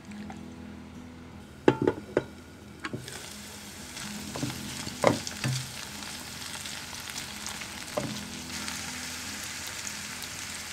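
Diced potatoes sizzling in oil in a non-stick kadai, with a silicone spatula stirring and knocking against the pan several times. The sizzle sets in about three seconds in and then runs steadily.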